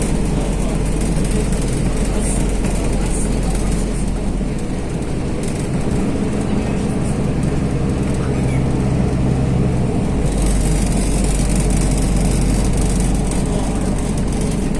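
Inside a moving MAZ-215 articulated city bus: the diesel engine and road noise run steadily. The deep low rumble eases for a few seconds in the middle, then comes back.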